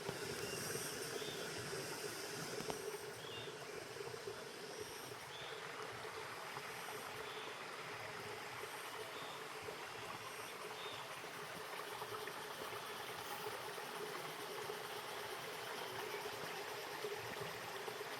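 Water of a stream flowing steadily, with faint short chirps about once a second in the first half.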